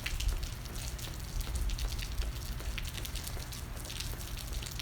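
Steady rain falling, with many small drop ticks and a low rumble underneath.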